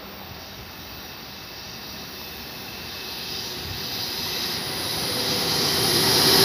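Deutsche Bahn electric locomotive hauling an Intercity train approaching: a steady rushing rumble that swells steadily louder as the train draws near.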